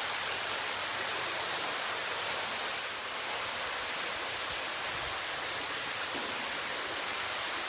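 Water falling in curtains from the roof of a limestone cave: a steady rushing hiss.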